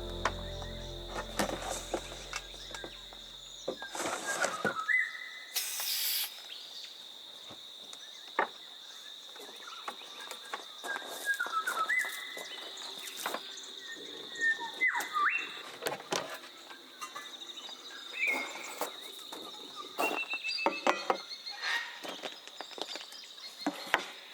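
Steady high-pitched insect drone in the Australian bush, with scattered short whistled bird calls and a few clicks. Background music fades out in the first few seconds.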